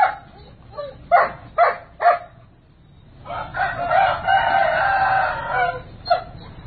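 Rooster crowing: one long crow of about two and a half seconds, a little over three seconds in, after several short sharp calls in the first two seconds.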